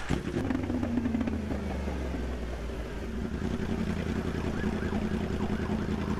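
Yamaha R1M superbike's crossplane inline-four engine running steadily at idle.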